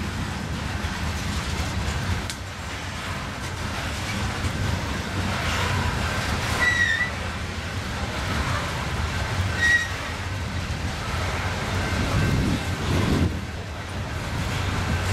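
Freight train cars rolling past with a steady low rumble, and two short high wheel squeals, about seven and ten seconds in.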